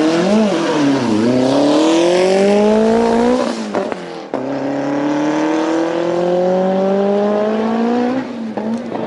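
Drag car's engine accelerating hard down the strip. After a quick rise and dip right at the start, the engine note climbs steadily in pitch. It breaks off briefly, climbs again in a second long pull, then drops to a lower, wavering note near the end as the throttle comes off.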